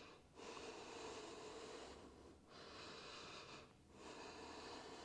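Faint, slow breathing, a few long breaths of about a second and a half each with short pauses between them.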